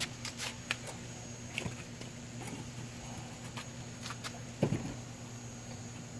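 Background room tone: a steady low hum with scattered faint clicks and one soft knock about three-quarters of the way through.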